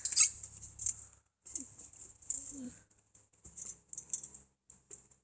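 Faint scattered clicks and light rattling of small objects being handled, with a couple of faint short voice-like sounds.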